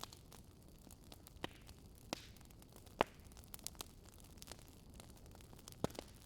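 Wood fire crackling: irregular sharp pops and snaps over a faint steady hiss, the loudest pop about three seconds in.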